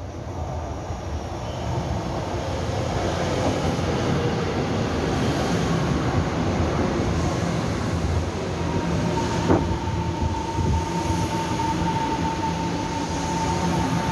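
Taiwan Railway electric commuter train pulling into the station: the rumble of its wheels on the rails builds up and runs on loudly as the cars pass. A sharp clank comes a little past halfway, and a steady high-pitched squeal sets in just before it and holds to the end.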